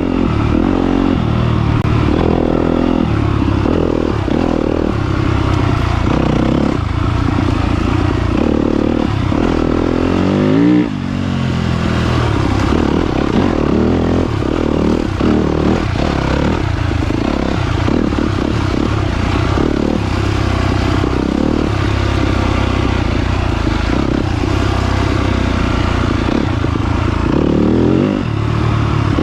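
2022 Yamaha YZ250FX's 250 cc four-stroke single-cylinder engine running hard under a rider, revving up and down over and over as the throttle is worked, with a brief sudden drop in level about eleven seconds in.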